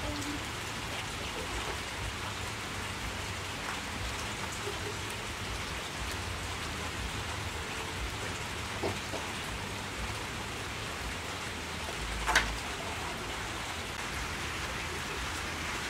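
Steady hiss of rain, with one sharp click about twelve seconds in.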